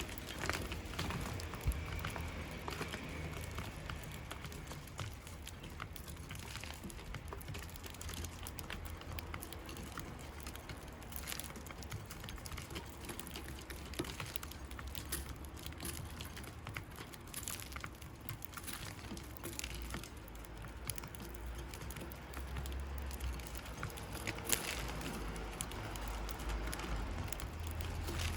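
Sparrows on the ground or a feeder: many scattered light ticks and taps, like pecking and hopping, over a low steady rumble.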